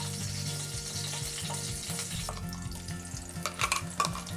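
Curry leaves sizzling in hot oil in a kadhai while being stirred, with a few sharp clicks about three and a half seconds in.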